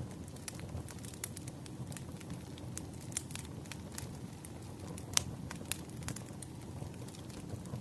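Firewood burning, with irregular sharp crackles and pops over a low, steady rumble. One louder pop comes about five seconds in.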